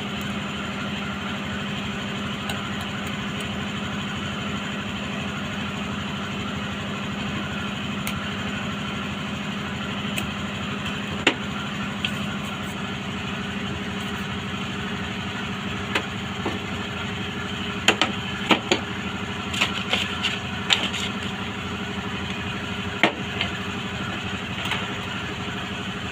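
A steady mechanical hum, with scattered sharp clicks of metal parts and tools being handled. The clicks come in a cluster about two-thirds of the way through.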